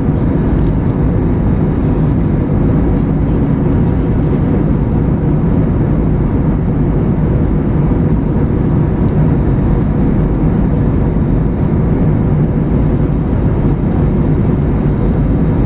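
Steady cabin noise of a jet airliner in flight, heard from inside the cabin: an even, low rushing drone of engines and airflow with a faint steady hum.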